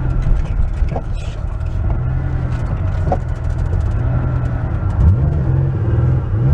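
Porsche 911's flat-six engine running on the road, heard from inside the cabin as a steady low drone; near the end its pitch dips and climbs twice.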